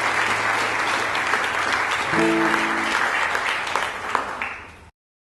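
Audience applauding after an acoustic song, with a brief steady tone about two seconds in. The clapping fades and the sound cuts off just before the end.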